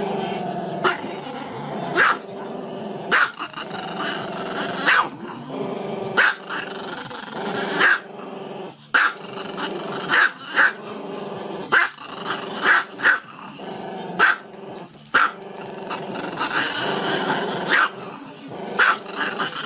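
Small black-and-tan dog growling continuously, breaking into short, sharp yappy barks about once a second.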